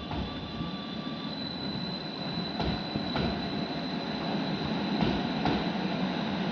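Tyne and Wear Metro train approaching and growing steadily louder, with a steady high whine and wheels clicking over rail joints in pairs about half a second apart.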